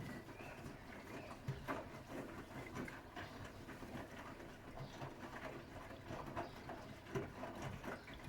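Bosch WAT286V0 washing machine with its EcoSilence Drive motor, the drum turning and tumbling wet laundry. The sound is a run of irregular soft knocks and splashes over a steady low hum.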